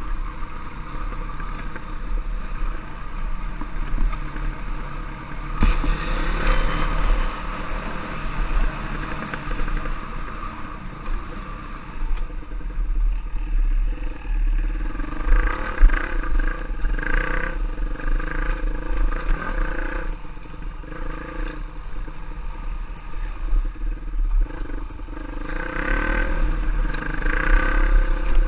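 Off-road trail motorcycle engine running under way, its revs rising and falling repeatedly as it is ridden, with bursts of throttle about six seconds in, in the middle and near the end.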